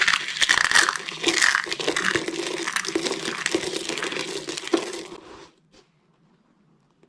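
Dry soap being crushed, a dense run of crunching and crackling that stops suddenly about five and a half seconds in.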